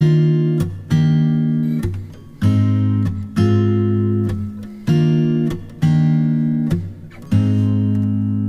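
Background music: an acoustic guitar strumming chords, about one strum a second, each chord left to ring and fade before the next.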